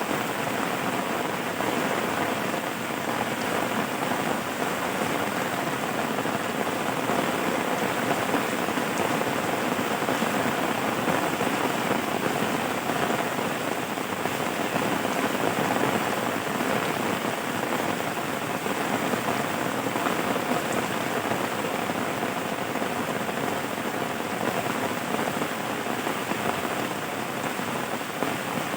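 Steady rain falling and pattering on a surface, an even hiss with no thunder or other events.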